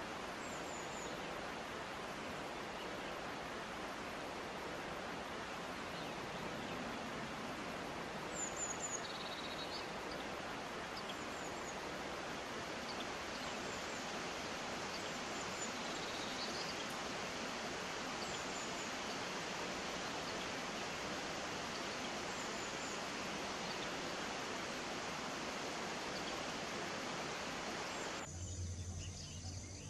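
Steady rushing of a stream, with faint, brief high bird chirps scattered throughout. Near the end the water sound cuts off abruptly, giving way to a quieter, steady high insect-like buzz over a low hum.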